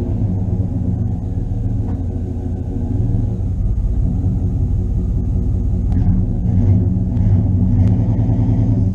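A vehicle's engine running steadily at low revs while it tows the sunken boat, with a few faint knocks about six to eight seconds in.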